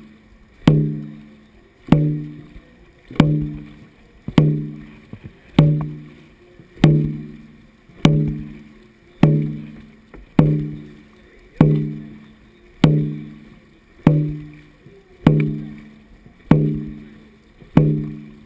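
Dragon boat drum struck in a slow, even beat, one hit about every 1.2 seconds, each stroke booming and dying away before the next. The beat sets the pace of the paddlers' strokes.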